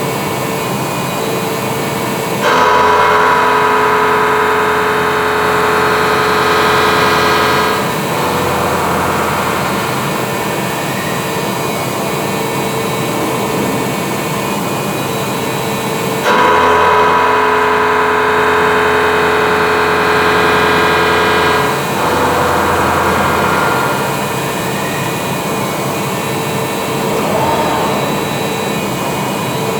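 Forest-Line Majormill 350 T PA milling machine running under power with a steady mechanical hum and whine. Twice it switches abruptly to a louder, multi-tone whine that lasts about five seconds, with shorter swells between.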